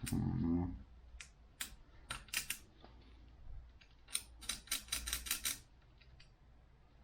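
Hand tools clinking on metal: a short low thud or scrape at the start, then scattered sharp metallic clicks, with a quick run of them near the end.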